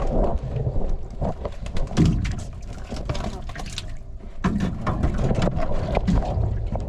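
Wind buffeting the microphone over a small fishing boat, with irregular knocks and water splashes from the boat and its gear.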